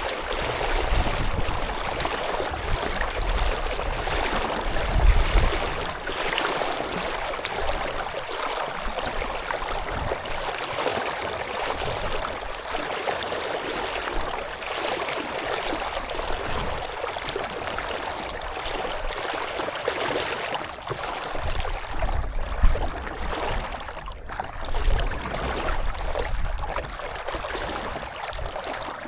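Water rushing and splashing around a canoe on open water, a steady noise with uneven louder surges.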